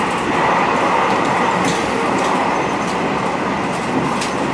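Cabin noise of a moving ETS electric train heard inside the carriage: a steady, even rush with a faint high whine running under it, and a couple of light clicks.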